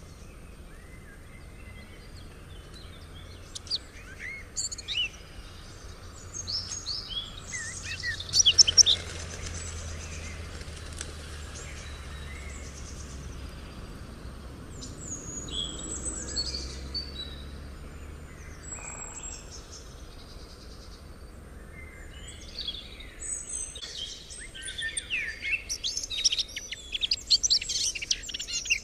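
Several small songbirds chirping and trilling over faint background rumble, with a brief loud burst of calls about a third of the way in and denser, louder chirping near the end.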